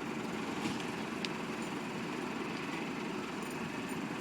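Steady rumbling background noise with no tyre burst, and one faint sharp click about a second in.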